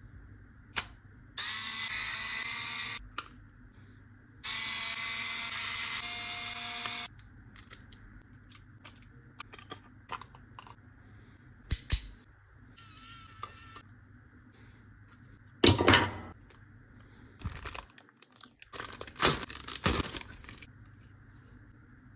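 A small motorized tool runs twice in short steady whirring bursts, the second longer, followed by a brief fainter run and then scattered clicks and knocks of parts being handled.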